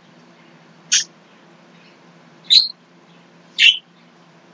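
A bird chirping: three short, high chirps spaced a second or so apart.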